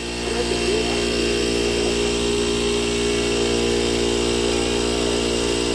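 Small motor-driven air compressor running steadily while inflating a tire, with an even hum that gets slightly louder about half a second in.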